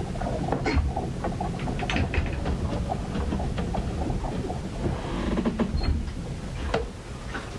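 Storm noise recorded aboard a ship: a steady low rumble with frequent irregular knocks and clicks.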